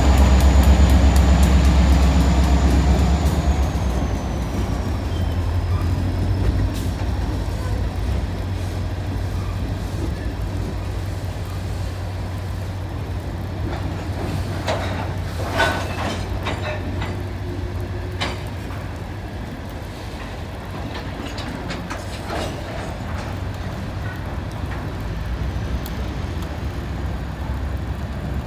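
Freight train of rock hopper cars rolling across a steel trestle overhead, a steady rumble with a few sharp clanks. The heavier low rumble of the diesel locomotive eases off in the first few seconds, and a thin high whine slides down in pitch around the same time.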